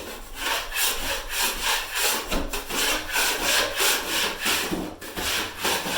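Drywall knife scraping over joint compound in repeated strokes, about two or three a second, with a short break about five seconds in.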